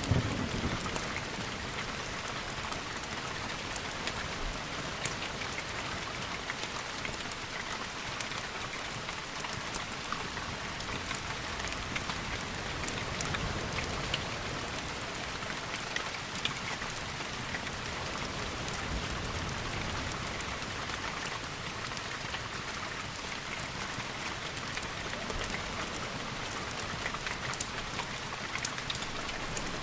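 Steady rain falling, with many scattered sharp drop ticks. The tail of a thunder rumble dies away in the first second.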